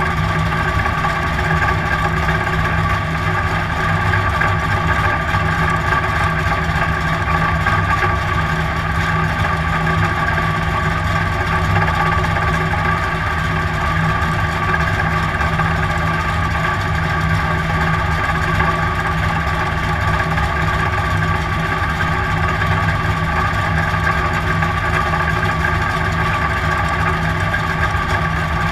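Dirt-track race car's engine idling steadily, heard from inside the cockpit, with an even pitch that does not rise or fall.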